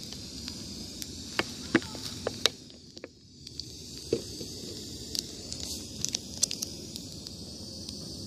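Wood bonfire crackling, with scattered sharp pops over a steady hiss; the loudest pops come between about one and two and a half seconds in.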